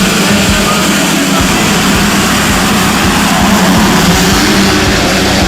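A pack of motocross bikes revving hard together at the start line, many engines blending into one loud, steady, buzzing wall of sound.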